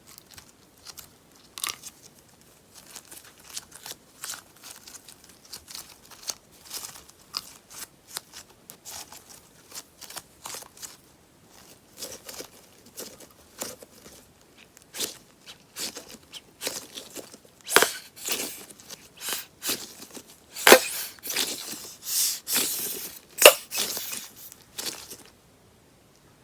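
Sponge slime being worked, giving dense crackling pops and tearing sounds that grow louder and thicker in the last third, then stop near the end.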